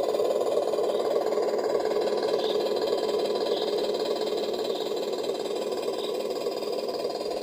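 Steady motor drone of a radio-controlled off-road car, easing slightly in level toward the end.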